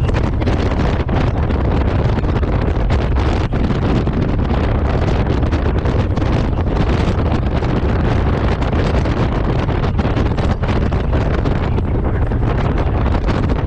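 Loud, steady wind buffeting the microphone, a dense low rumble, as heard while riding a motorcycle at road speed.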